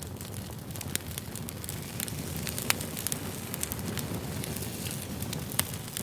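Wood campfire crackling: a steady rush of burning with many sharp snaps, and two louder pops, one about three seconds in and one near the end.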